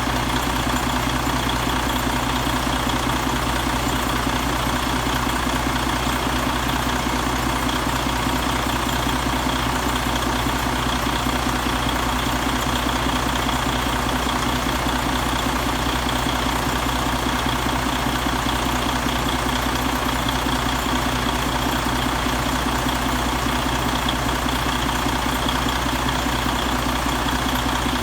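2016 Detroit DD15 inline-six diesel engine idling steadily.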